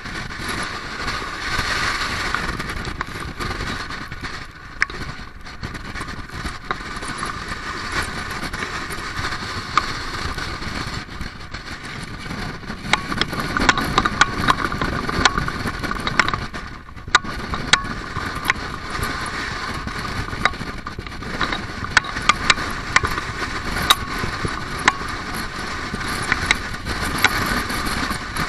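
Strong wind blowing, a steady rushing noise with many sharp clicks and ticks scattered through it.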